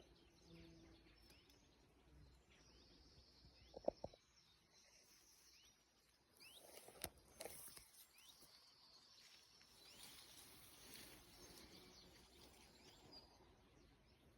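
Faint countryside ambience of distant birds chirping and calling, with a few brief sharp clicks about four and seven seconds in.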